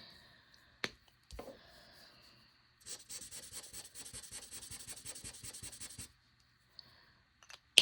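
Fine tip of an Ohuhu alcohol marker scribbling rapidly back and forth on paper for about three seconds, laying down colour. A faint click about a second in and a sharp click near the end.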